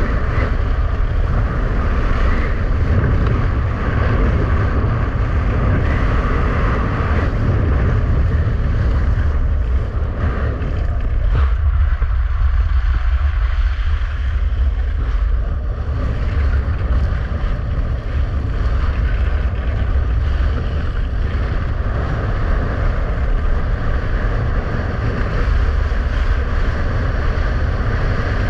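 Strong wind buffeting the microphone, over a steady rumble and hiss of skis running fast across rough lake ice.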